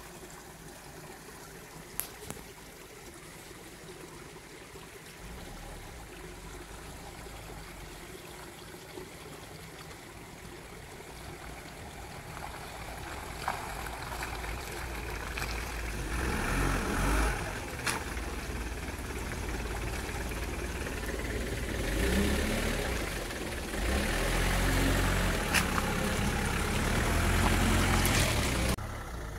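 Engine and rumble of a Mitsubishi Delica van on the move over rough ground, low and faint at first and growing louder about halfway through, with a few sharp knocks.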